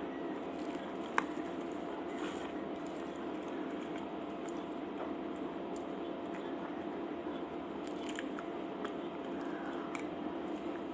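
Close-up mouth sounds of a person chewing and biting Salvadoran cheese tortas: wet squishing with scattered small clicks, and one sharp click about a second in. A steady low hum runs underneath.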